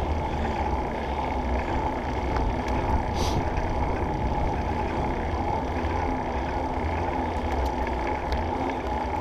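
Steady wind rumble on an action camera's microphone in an open-backed skeleton case, with rolling road noise from a Surly Krampus bike ridden at an easy pace. A brief hiss comes about three seconds in.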